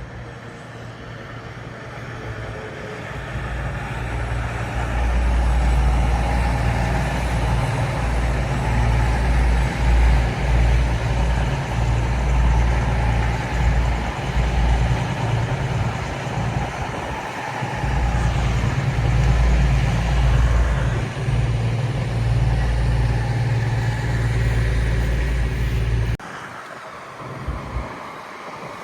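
Diesel train's engine running with a loud, deep rumble that builds over the first few seconds and cuts off suddenly near the end.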